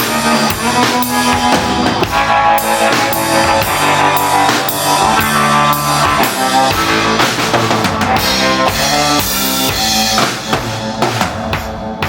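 Live rock band playing an instrumental passage with no vocals: the drum kit drives a steady beat on bass drum and snare under sustained pitched instruments.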